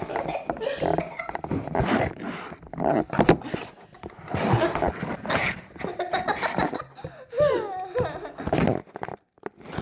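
Children's voices, chattering and laughing, with a squealing cry that slides up and down in pitch about seven seconds in.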